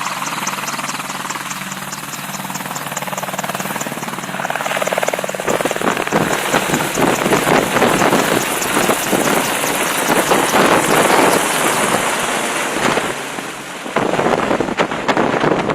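AH-64E Apache attack helicopter's twin turbine engines and rotors running, a steady hum and high whine at first; about five seconds in it grows louder and rougher with a rapid rotor beat and rushing wind from the downwash as the helicopter lifts off.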